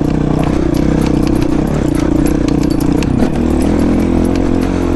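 Honda CRF450 dirt bike's single-cylinder four-stroke engine running under throttle on a trail ride. Its note changes about three seconds in.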